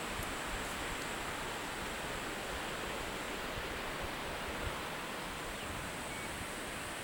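Steady rush of a waterfall running full in the rainy season, an even roar of falling water.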